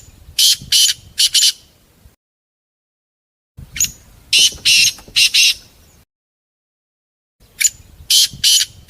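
Raspy, high animal calls: a short call then three longer ones in quick succession, the same group repeated three times with pauses between.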